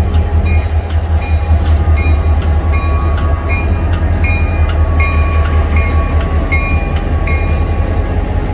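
Iron ore wagons of a freight train rolling past with a loud, steady low rumble. Short high metallic squeals come from the wheels and couplings roughly twice a second.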